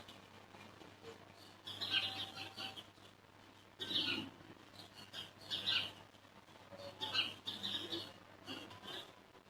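Small birds chirping: short, irregular bursts of high calls about once a second, over a faint steady hum.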